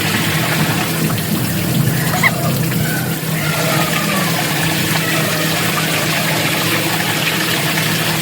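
Steady running water with a low, even hum underneath.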